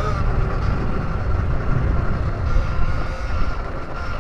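Electric dirt bike riding, its motor giving a steady high whine over heavy wind rumble on the microphone.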